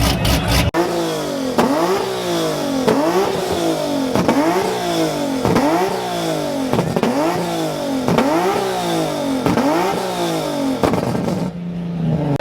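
A car engine revved over and over, about eight quick rev blips a little more than a second apart, each climbing and falling in pitch. It then settles to a steady idle near the end.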